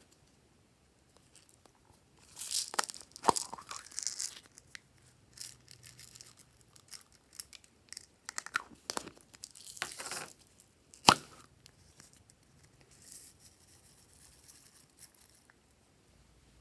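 Glossy slime being stretched and squished by hand, giving sticky crackling and clicking in irregular bursts, with a sharp pop of trapped air about eleven seconds in as the loudest sound.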